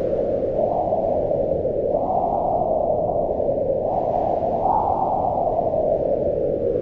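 Howling wind, a steady deep rush whose pitch rises and falls in slow gusts, swelling about two seconds in and again near the middle.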